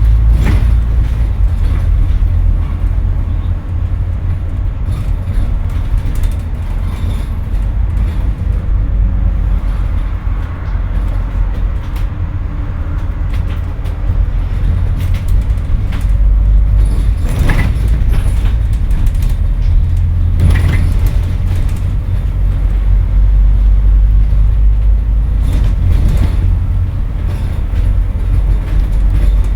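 Scania N230UD double-decker bus heard from on board: a deep, continuous engine and road rumble that eases for a stretch, then grows louder again about halfway through. Several sharp knocks and rattles from the bus body come through, two of them close together past the middle.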